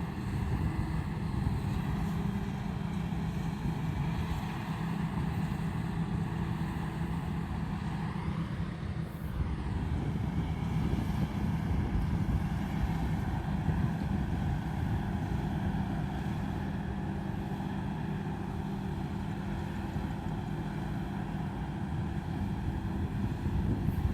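Combine harvester running steadily, a continuous engine and machinery drone, with a brief rise and fall in pitch about eight to ten seconds in.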